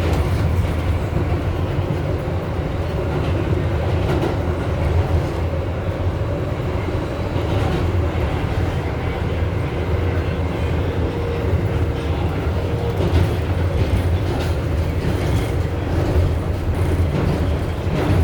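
R188 subway train running between stations, heard from inside the car: a steady, loud, deep rumble of wheels on rail, with scattered clicks over the track. A faint steady whine joins in for a few seconds in the middle.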